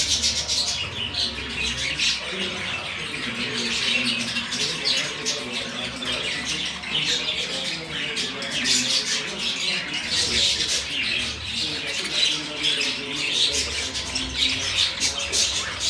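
Budgerigars chattering: a continuous, dense run of short chirps and squawks.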